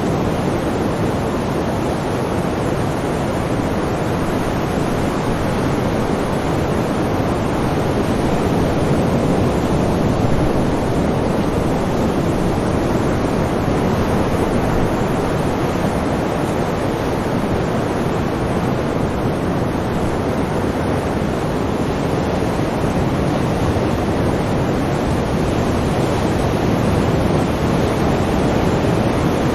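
Sea waves: a steady rush of surf, swelling gently in loudness about ten seconds in.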